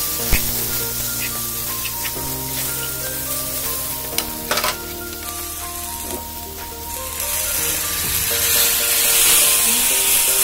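Chicken filling and spice paste sizzling in oil in a frying pan while a metal spatula stirs and scrapes it, with a few sharp clicks. Near the end the sizzle swells into a loud, steady hiss as liquid is poured into the hot pan.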